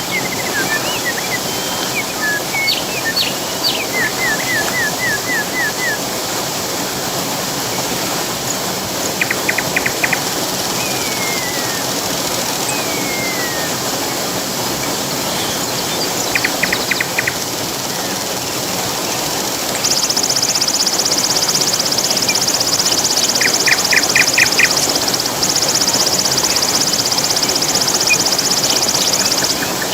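Rushing water running steadily, with birds calling over it: short rapid trills several times and a couple of falling whistles. About two-thirds of the way in a loud, high insect buzz starts and runs on until just before the end, briefly breaking once.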